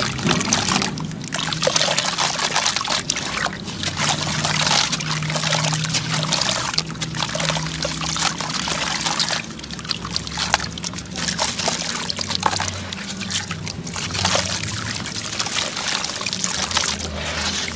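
Dry sand clumps crumbling and trickling down in a dense grainy hiss, coming in runs with brief pauses between them.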